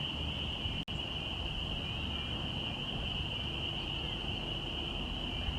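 A dense chorus of frogs peeping, merging into one steady high-pitched ring over faint outdoor background noise; the sound cuts out for an instant about a second in.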